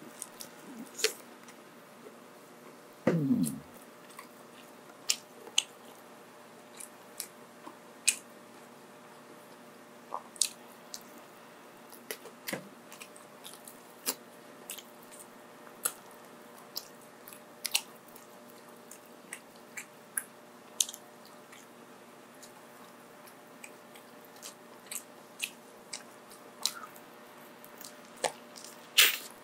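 Close-miked mukbang eating: chewing with sharp, irregular mouth clicks and smacks about once or twice a second, with some crunch. A louder, short low sound falling in pitch comes about three seconds in.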